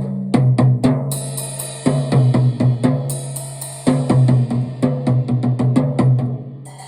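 Drum kit being played: snare and bass drum accents about once a second with quicker cymbal and hi-hat strokes between them, cymbals washing through most of the passage. It sits over music with sustained low notes.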